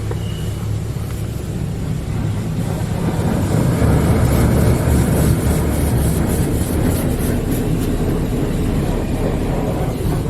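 Hydro Spray Classic in-bay automatic car wash spraying rinse-wax water over the car, heard from inside the cabin: a steady hiss and patter of spray over the low hum of the machine's pump. The spray gets louder about three seconds in.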